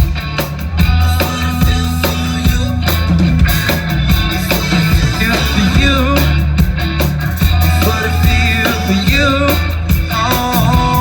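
Rock-style band music with drums, bass and guitar playing an instrumental passage between sung lines.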